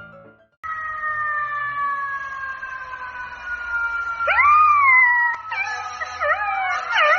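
A dog howling. It starts with one long howl that slowly falls in pitch, then gives a short note that rises and falls, then quicker wavering notes that go up and down.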